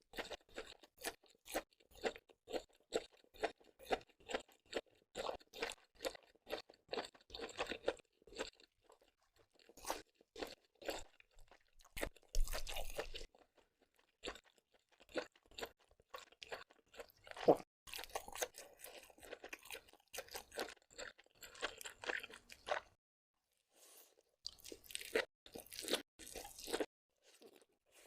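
Seafood being chewed and crunched up close: a quick, even run of wet chewing strokes, about two or three a second, then more irregular bites with a couple of louder crunches midway.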